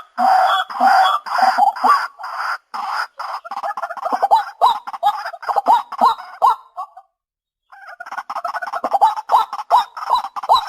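White-breasted waterhen calling: a fast series of short calls, each with a rising hook, that quickens; the calling breaks off for under a second about seven seconds in, then starts again.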